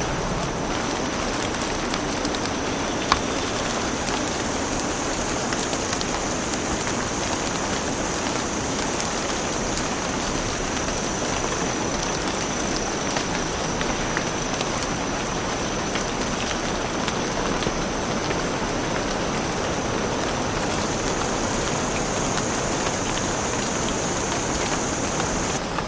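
Steady rain falling on cloud-forest foliage, a dense even patter with scattered small drop ticks, over a constant high-pitched whine.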